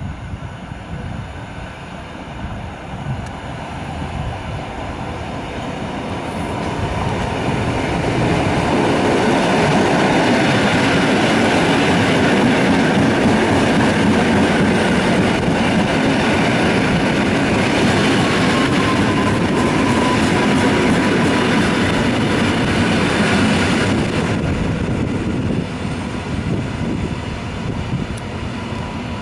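Koleje Mazowieckie EN57AKM electric multiple unit pulling into a station platform. The rumble of its wheels on the rails grows as it draws close, holds loud as the cars pass, and eases off near the end as it slows to a stop. A faint whine falls in pitch as it slows.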